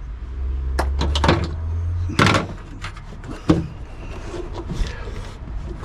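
Knocks and clicks of parts being handled and fitted back in place: several sharp knocks in the first two and a half seconds, the loudest about two seconds in, a sharp click about three and a half seconds in, over a low rumble early on.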